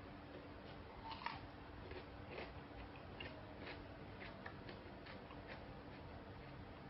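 Faint, irregular crunching clicks of a person biting and chewing crispy ayam geprek (smashed fried chicken), over a low steady hum.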